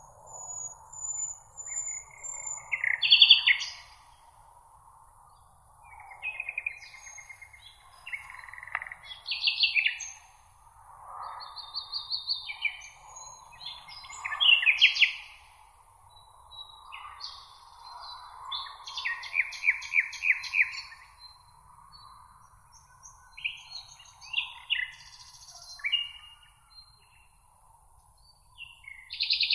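Songbirds singing: a string of short, varied phrases and quick trills, one after another with brief gaps. Under them runs a faint, steady background wash.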